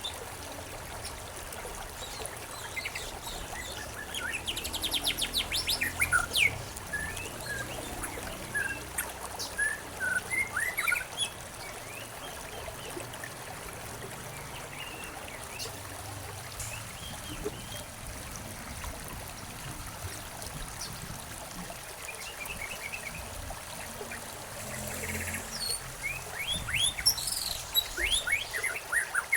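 Several songbirds chirping and trilling, with a busy run of calls a few seconds in and another near the end and a sparser stretch between. Underneath is a steady soft hiss of running water.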